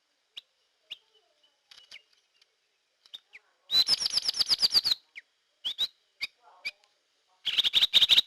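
Drongo (srigunting kantil) lure call: scattered short chirps, then a fast run of about ten loud notes, a few single chirps, and another fast run near the end.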